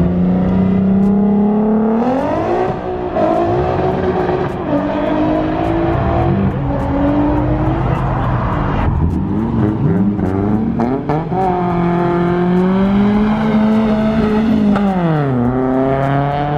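A car engine revving hard: the pitch climbs, wavers up and down, holds high for a couple of seconds, then drops near the end.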